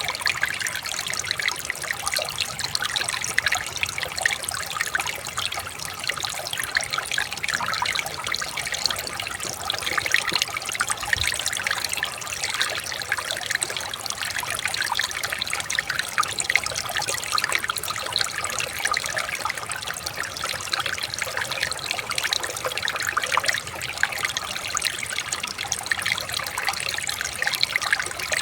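River water running and trickling in a steady, unbroken babble.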